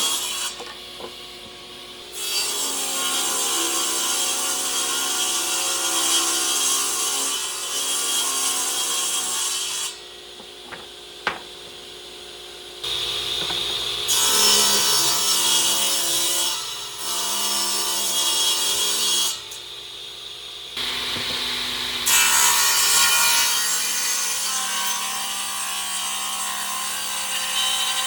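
Electric power tool working wood in several long passes, the motor's steady hum under a loud grinding rasp, with short pauses between passes.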